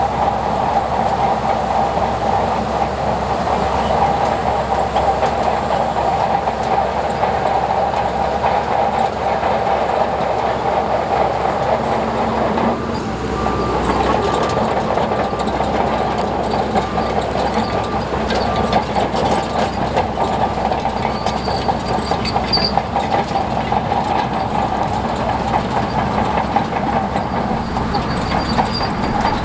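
Crawler bulldozer's diesel engine running under work, with a steady clatter of its steel tracks. The engine note shifts briefly about halfway through.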